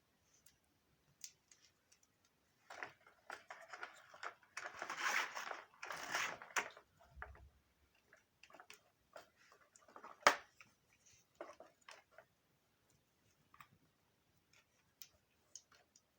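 Hands handling vacuum-cleaner parts and wiring: scattered small clicks, a few seconds of rustling and scraping in the middle, and one sharp click about ten seconds in.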